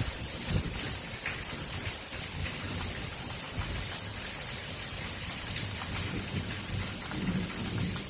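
Heavy rain pouring steadily in a thunderstorm, with a low, uneven rumble of thunder underneath.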